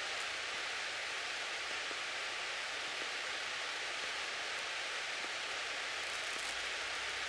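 Steady, even hiss from a light aircraft's cockpit intercom audio, with a faint steady high tone underneath.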